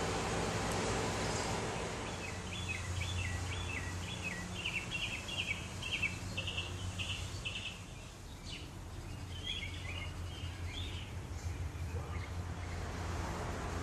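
Songbird singing a rapid string of short repeated chirps, then a shorter burst of song a few seconds later, over a steady low hum.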